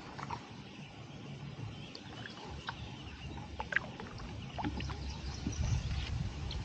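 Kayak paddling: the paddle blades dip into the water and drip, with scattered small splashes and ticks over a steady low rumble.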